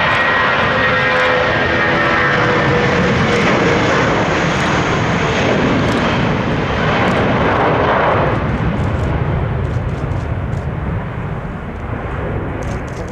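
Airbus A320 jet engines at takeoff power as the airliner climbs out past: a loud, steady jet noise with whining engine tones in the first few seconds, fading gradually from about eight seconds in.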